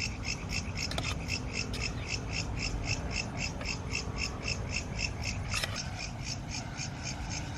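An animal chirping steadily, short even pulses repeating about four to five times a second, over a steady low rumble of background noise, with a couple of faint clicks.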